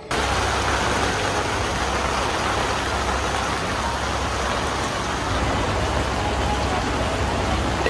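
Heavy rain falling in a steady, even hiss, with a low steady rumble beneath it.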